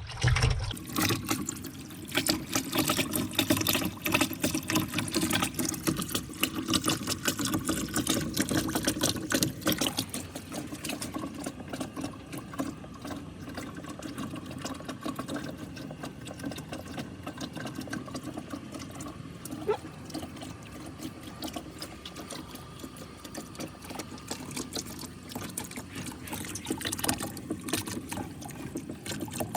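Water running and trickling through a marble run course, with many small clicks and rattles of marbles rolling along the track. It is busier and louder for the first ten seconds or so, then settles lower.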